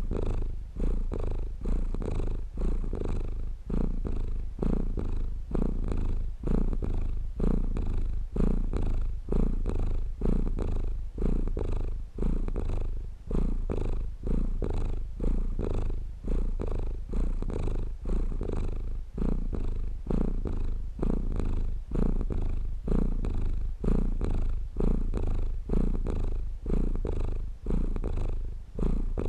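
Domestic cat purring close up: a continuous low rumble that swells and dips in a steady rhythm of about one pulse a second as the cat breathes in and out.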